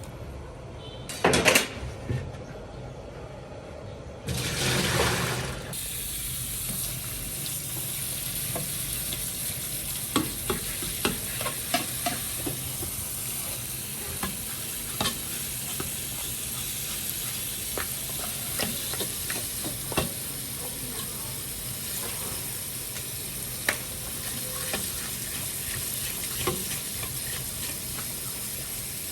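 Food frying in hot oil in a pan, with a sharp clatter about a second in. A loud sizzle surges up about four seconds in and settles into a steady sizzle, with a utensil clicking against the pan as the food is stirred.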